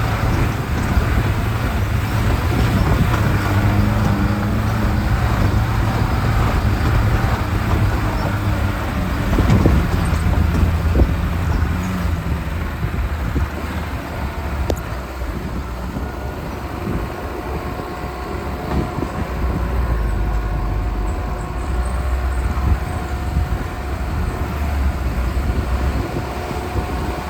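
Lada Niva's engine running as it is driven on a rough off-road track, its pitch rising and falling with the revs, with scattered knocks and rattles.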